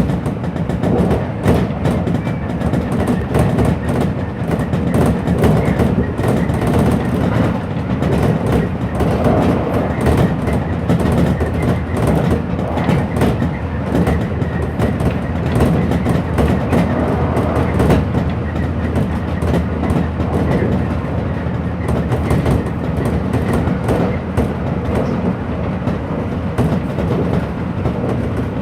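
Hanshin Electric Railway train running at speed, heard from inside the front car: a steady rumble of wheels on rail with rapid clicking and rattling throughout.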